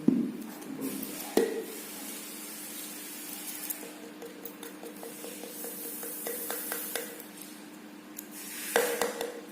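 Kitchen utensil knocking, clinking and scraping against a dish while instant fried noodles are stirred and mixed, with sharp knocks near the start and a louder clatter near the end, over a faint steady hum.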